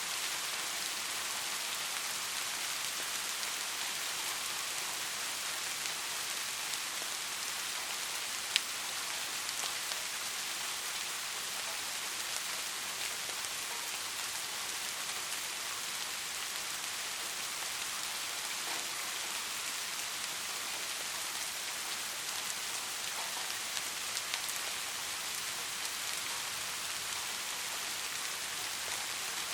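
Steady soft rain, an even hiss of rainfall with scattered individual drops landing close by. About eight and a half seconds in there is one sharp, louder drop tick.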